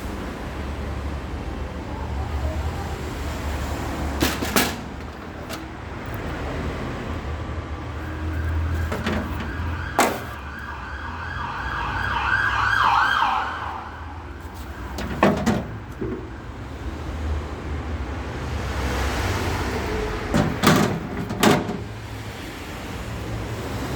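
Low, steady rumble of road traffic, with a siren rising and falling for about five seconds around the middle. Several sharp knocks are scattered through.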